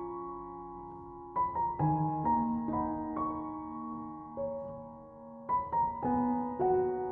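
Background piano music: slow, soft notes and chords struck every second or so and left to ring and fade.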